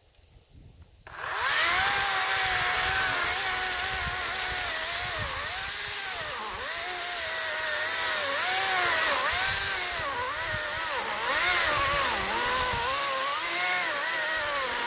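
40-volt Greenworks cordless electric chainsaw starting up about a second in and cutting through a pine log. The motor's whine keeps dipping and recovering in pitch as the saw bogs under load. It is being pushed hard enough to trip its thermal overload.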